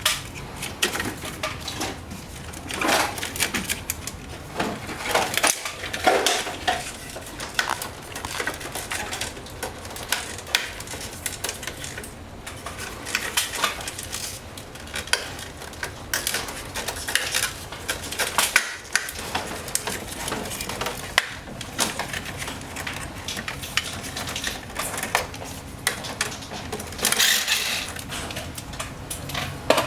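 Irregular clicks, knocks and clatter of plastic and metal parts being handled as a wall-mounted air conditioner is taken apart to remove its drain pan.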